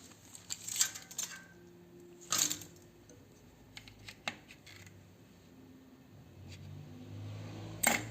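A few sharp metallic clinks and knocks at uneven intervals, like scrap parts from an air-conditioner unit being handled. There is a cluster about a second in, another knock a little later, small ticks in the middle, and the loudest clink near the end.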